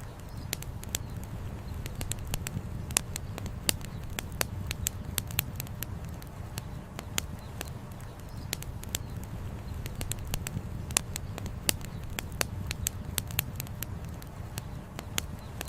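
Wood campfire crackling, with frequent irregular sharp snaps and a few louder pops, over a steady low rumble.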